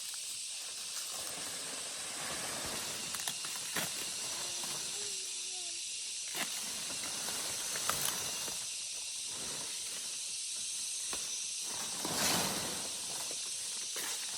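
A steady high hiss with a few sharp knocks scattered through it and a louder rustle near the end.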